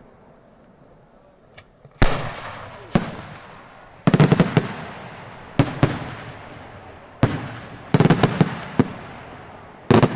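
Daytime fireworks display: loud bangs begin about two seconds in, some single and some in quick rattling clusters of several reports, each trailing off in a rolling echo.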